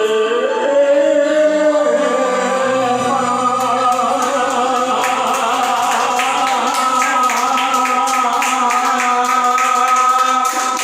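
A man singing the long final held note of a song over a karaoke backing track. The note slides up in the first second and is then held steadily, while a light beat ticks in the accompaniment from about halfway through.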